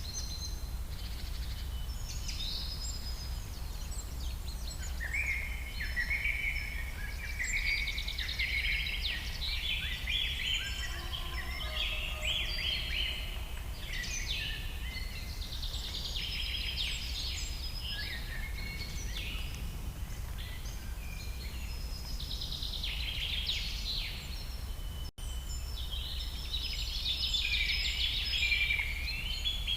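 Several songbirds chirping and trilling, many calls overlapping, over a steady low background rumble. The sound cuts out for a split second late on.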